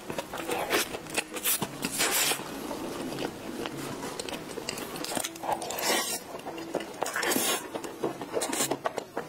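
Close-miked chewing and wet mouth sounds of someone eating a soft cream-filled pastry, with many small clicks. Several louder crinkling rustles come about two seconds in and again around six and seven seconds in as a clear plastic dessert container is handled.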